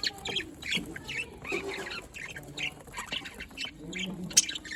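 A colony of budgerigars chattering: many short, overlapping high chirps and squawks.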